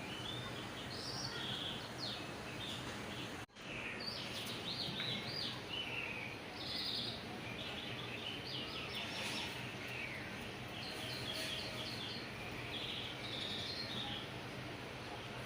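Small birds chirping repeatedly over a steady background hum, with a brief gap in all sound about three and a half seconds in.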